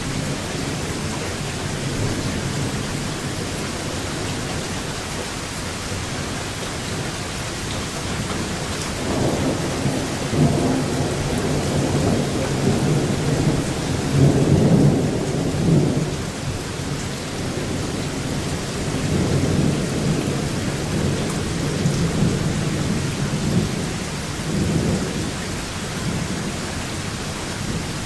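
Steady rain falling, with long rolls of thunder rumbling over it; the thunder builds about a third of the way in, is loudest around the middle, and rolls on again later.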